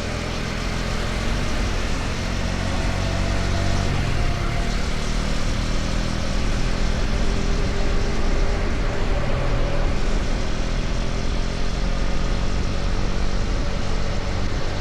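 KTM Duke 250's single-cylinder engine running at road speed, its pitch drifting slightly as the revs change, under heavy wind and road noise. It gets a little louder over the first few seconds.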